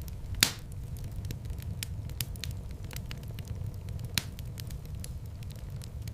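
Wood fire burning in a fireplace: a steady low rumble of flames with scattered small crackles, and two sharper pops, one about half a second in and one about four seconds in.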